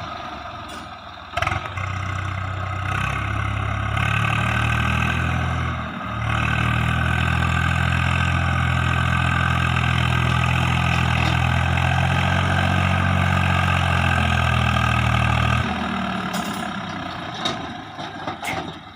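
Heavy diesel engine running hard and steady. It picks up about a second and a half in, dips briefly about six seconds in, then holds its speed until it eases off near the end.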